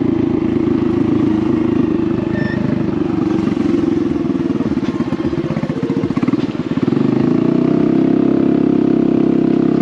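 Honda Navi's small single-cylinder engine running loud through a Vance & Hines performance exhaust with the muffler removed, a growl while riding. About five seconds in it eases off to a slow putter. About seven seconds in it picks up again and holds a steady, louder note.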